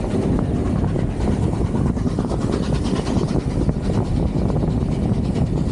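Steam-hauled passenger train running steadily along the track, heard from outside a carriage window, with a steady rush of wind on the microphone.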